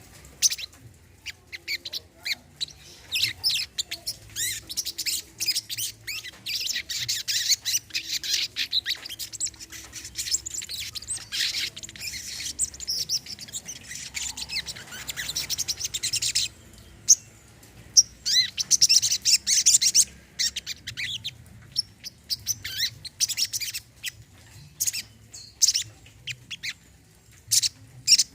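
Brown-throated sunbird singing a fast, high, twittering song of rapid chirps and trills. It breaks off a little past halfway, then starts again about a second later.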